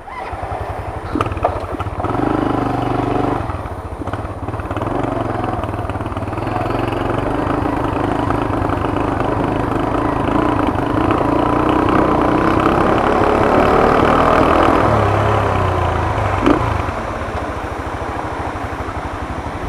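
Small motorcycle engine running, its revs climbing slowly for several seconds and then dropping back, with a couple of sharp clicks.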